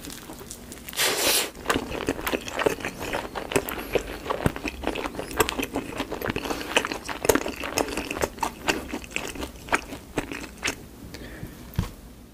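Close-up bite into sauce-coated fried chicken about a second in, followed by steady chewing full of sharp crackly clicks from the crisp coating.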